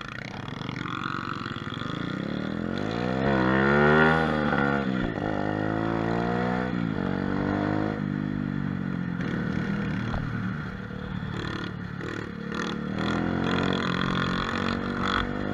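Single-cylinder mini motorcycle (pit bike) engine revving hard under acceleration for a wheelie. The pitch climbs to a peak about four seconds in, drops sharply, rises again, then runs on with smaller rises and falls.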